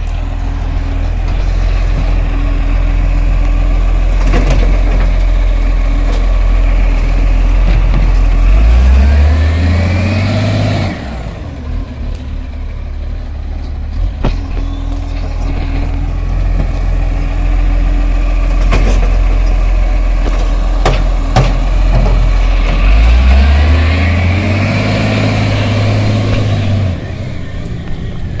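Garbage truck's diesel engine idling, then twice revving up and holding for a few seconds to power the hydraulic bin lift as it picks up and empties wheelie bins. Sharp clunks of the bins and lift mechanism come in between.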